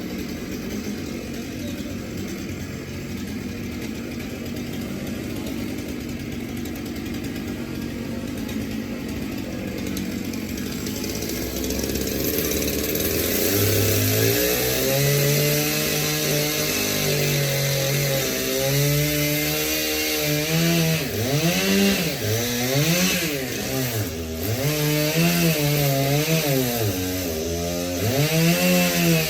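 Two-stroke chainsaw running steadily at low speed, then throttled up about halfway through and cutting wood, its engine pitch repeatedly dropping under load and picking back up.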